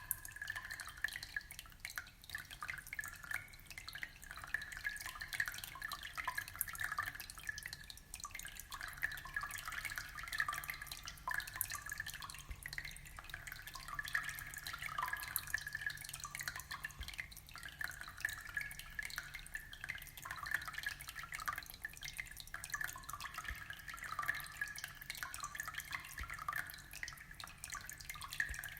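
Aquarium water trickling and bubbling steadily, a constant run of small drips and splashes.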